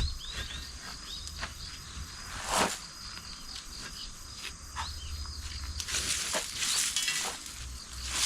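Insects chirping outdoors: a steady high-pitched drone with many short chirps that fall in pitch. A few short taps sound now and then, and a low rumble runs underneath.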